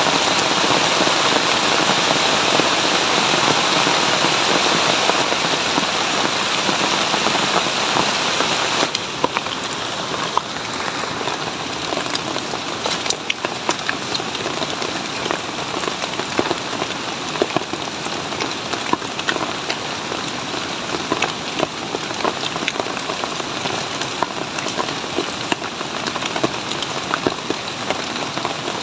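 Heavy rain falling steadily as a dense hiss; about nine seconds in it changes suddenly to a slightly quieter patter in which separate drops can be heard striking.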